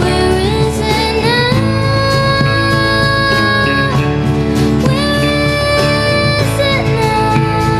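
A church worship band playing a contemporary worship song: guitars and long held melody notes that slide between pitches over a steady beat, with some singing.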